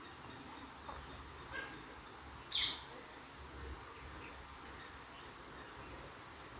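A bird gives one short, sharp, loud call about two and a half seconds in, with a few fainter chirps before and after it, over a steady high-pitched drone of insects.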